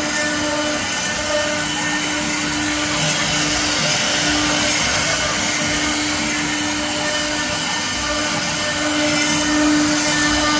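Wood CNC router running steadily, its spindle giving a constant whine over a continuous rushing noise.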